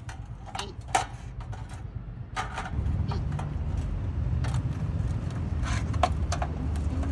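Scattered metal clanks and knocks from a folding steel fire pit grill being handled and forced shut, the loudest about a second in. A low steady rumble gets louder about three seconds in.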